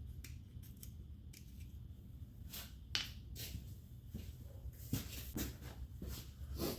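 Scattered light clicks and taps of hand tools and metal parts being handled during disassembly, irregular and unevenly spaced, with a couple of sharper clicks about three and five seconds in, over a steady low hum.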